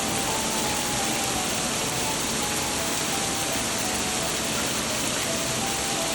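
Heavy downpour of rain, a steady loud hiss, with a quiet background music melody over it.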